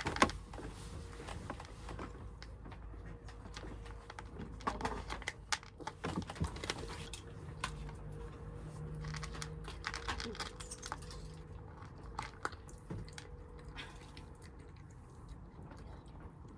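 Kittens eating: irregular crunching and small clicks, with a faint steady hum underneath.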